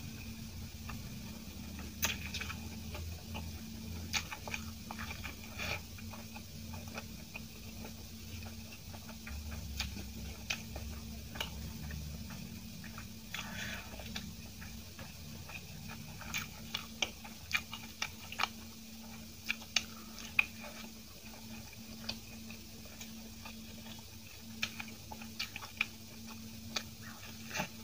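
Close-miked eating of soft steamed idli: quiet chewing with scattered wet mouth clicks and smacks, more frequent in the second half, over a steady low hum.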